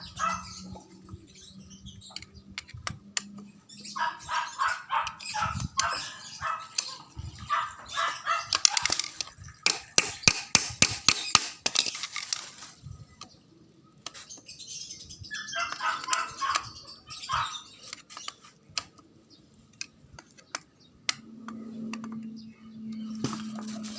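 Birds chirping in repeated bursts, mixed with a run of sharp clicks and taps near the middle; a low steady hum comes in near the end.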